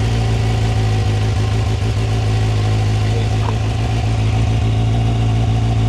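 2024 Kawasaki ZX-6R's 636 cc inline-four idling steadily moments after a cold start, through its stock exhaust with catalytic converter and resonator.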